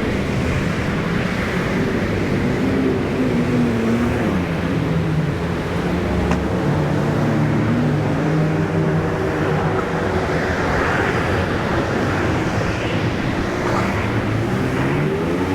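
City street traffic heard from a bicycle: engines of passing vehicles rising and falling in pitch over a steady rush of road noise.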